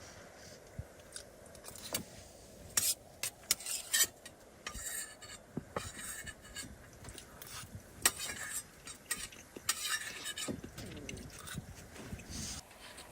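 Camp cookware and utensils being handled: irregular clinks, knocks and short scrapes of metal and dishes.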